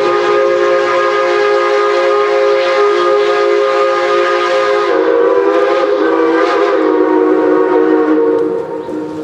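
Steam locomotive whistle blown in one long blast of several notes at once, its pitch sagging slightly partway through, then cut off near the end and echoing away.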